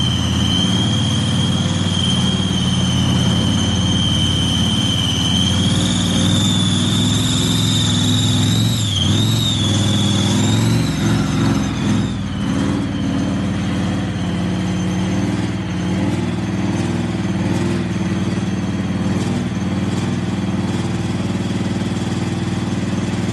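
Tank engine fitted in a KrAZ truck, running. A strong high whistling whine rises slightly, wavers and dies away about twelve seconds in, and the engine then runs on steadily.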